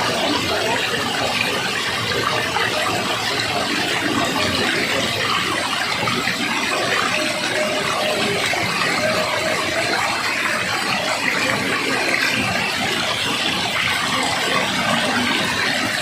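Steady, loud rush of falling water, such as a waterfall, an even unbroken roar of water noise.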